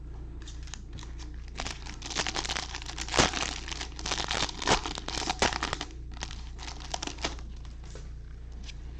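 Wrapper of a Bowman baseball card pack being torn open and crinkled by hand: crackling starts about one and a half seconds in, runs densely to about six seconds, then a few lighter crinkles follow.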